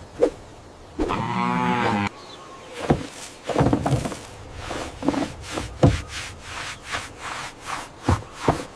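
Cartoon sound effects: a pitched call lasting about a second, then a run of light taps and knocks.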